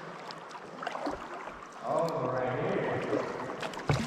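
Kayak paddle strokes splashing and dripping in still water, louder from about halfway in, with a couple of sharp knocks near the end.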